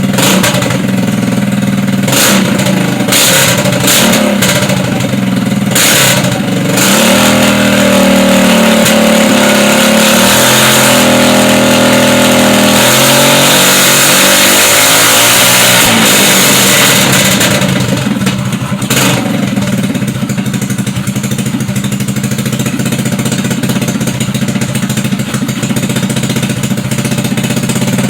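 GY6 150cc four-stroke single-cylinder scooter engine with a PWK 28 mm slide carburetor running on a test bench. It idles with several sharp cracks in the first seven seconds, is revved up and held high for about ten seconds, then drops back to a steady idle.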